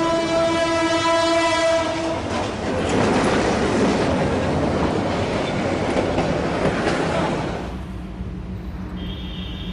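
Freight or commuter train horn blaring a steady multi-tone chord, cutting off about two seconds in. It gives way to a loud rushing clatter as the train goes through the crossing, which eases to a low rumble near the end.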